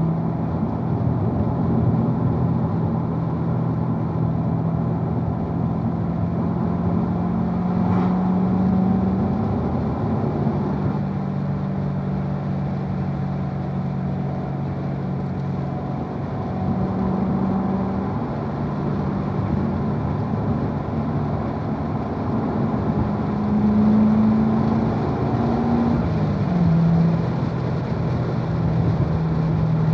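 2016 Corvette Z51's 6.2-litre LT1 V8 running at part throttle around 2,000–3,000 rpm as the car pulls along in third gear, a steady low drone whose pitch rises and falls with the throttle. Near the end the pitch drops briefly as the 7-speed manual is shifted up into fourth. A single click about eight seconds in.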